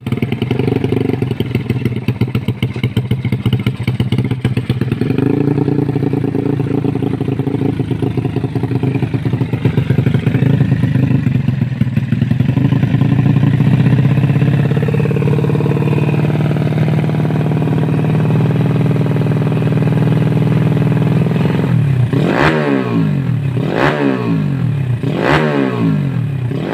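Motorcycle engine breathing through an aftermarket full-stainless competition exhaust, running steadily at idle. Near the end it is revved in three quick throttle blips about a second and a half apart.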